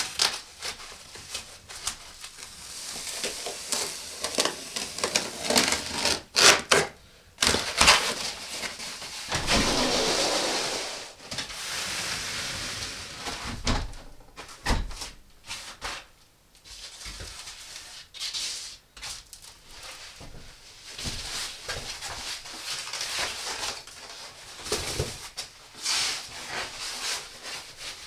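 Irregular rustling and scraping with scattered light knocks, as of things being handled by hand, with a longer hissing scrape about ten seconds in.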